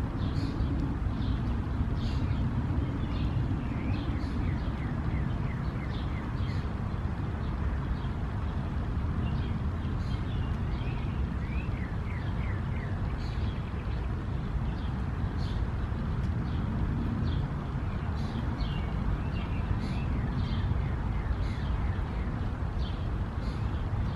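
Small birds chirping on and off, some calls in quick runs of short falling notes, over a steady low background rumble.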